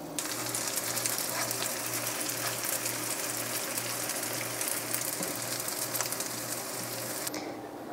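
Small flattened mashed-potato patties coated in frying batter mix sizzling and crackling in hot oil, the oil now hot enough to fry them properly. The sizzle stops abruptly near the end.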